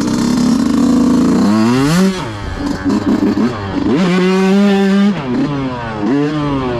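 125cc dirt bike engine being ridden hard: it runs steadily, then from about a second and a half in it revs up, falls away and climbs again several times, like a bike accelerating out of tight turns and easing off into the next.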